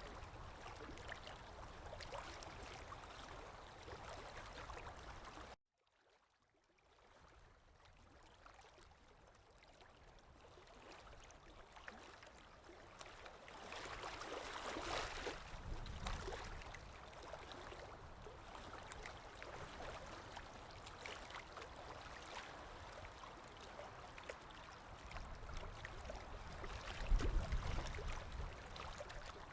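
Running stream water, a steady gurgling flow. About five seconds in it cuts out abruptly and then fades back up over several seconds.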